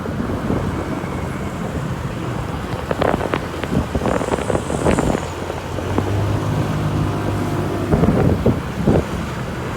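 Motor vehicle running, with wind noise on the microphone. Several sharp knocks sound between about three and five seconds in, and a steady low engine hum comes up about six seconds in.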